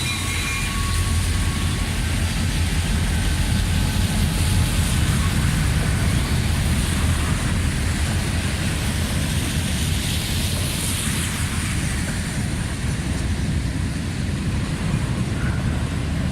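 Freight train passing close by, led by two EMD SD40-2 diesel locomotives with two-stroke V16 engines: a steady, heavy, low rumble. The last of the train horn dies away within the first second.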